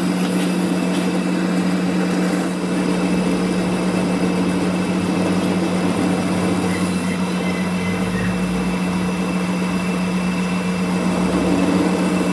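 A machine running with a steady, even hum at one pitch and a constant hiss over it.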